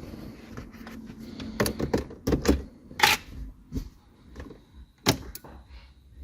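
A series of sharp clicks and knocks of hard objects being handled, about six over several seconds, the loudest near the middle, with a faint thin high whine in the second half.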